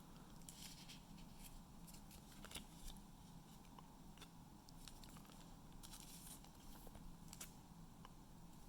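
Faint rustling and light clicks of trading cards and a pack wrapper being handled, scattered soft handling noises over a low room hum.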